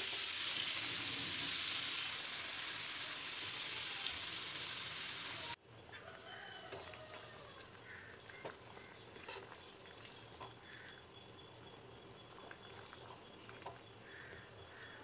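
Anchovies sizzling in hot oil on a flat pan, a steady hiss that cuts off suddenly about five and a half seconds in. It gives way to a much quieter background with faint scattered clicks.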